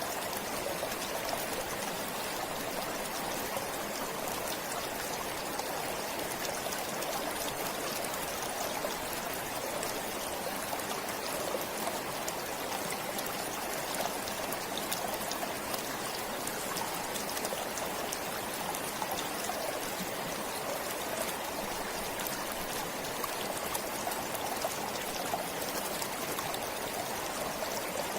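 Forest stream flowing and trickling steadily, an even rush with small splashes and no breaks.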